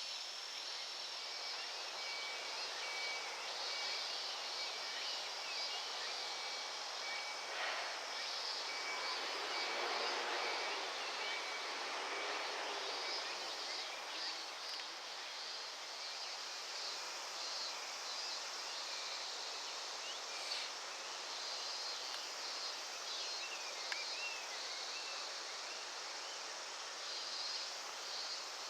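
Steady outdoor insect chorus: the dense sizzle of cicadas, with a thin steady buzz early on and small scattered chirps. A lower engine hum swells and fades about ten seconds in.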